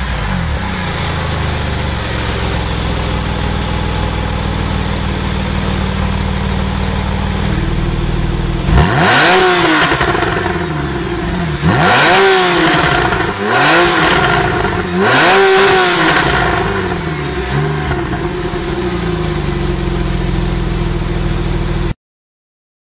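Porsche 911 991 Carrera 4S's 3.8-litre flat-six idling, then blipped hard four times in quick succession, each rev rising sharply and dropping straight back, before settling to idle again. The sound cuts off abruptly near the end.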